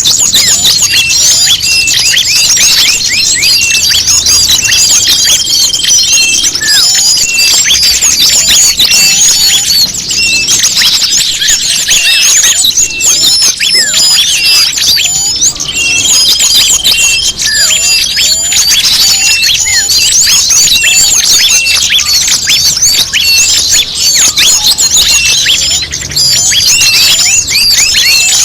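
Bird-lure (pikat) recording of small songbirds: a dense, unbroken chorus of rapid high chirps and twitters. A steady high whistled note of about a second and a half comes in three times, roughly every eleven seconds.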